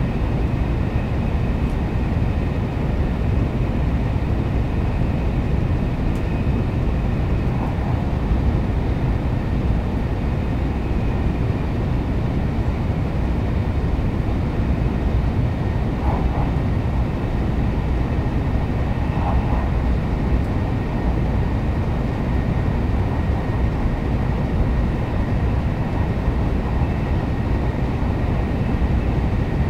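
Steady running noise of a Kyushu Shinkansen train at speed, heard from inside the passenger cabin: a continuous low rumble of wheels and rushing air, with a faint steady high whine.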